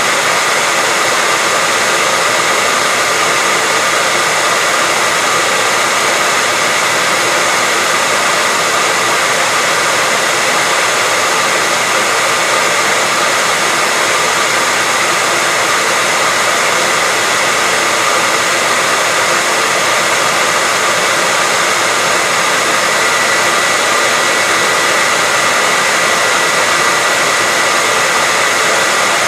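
Hair dryer running steadily: an even, unbroken rush of air with a steady high whine near 2 kHz.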